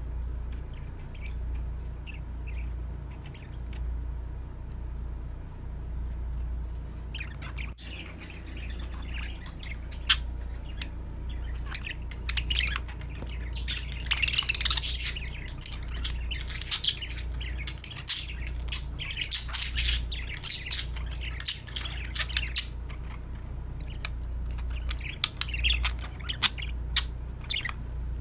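Budgerigars chattering and chirping in irregular bursts, busiest around the middle, with scattered sharp clicks over a steady low hum.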